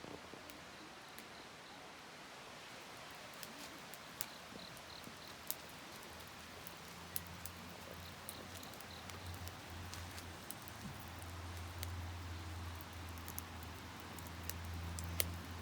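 Wood fire crackling, with scattered sharp pops over a faint hiss. A low hum rises up underneath from about halfway through.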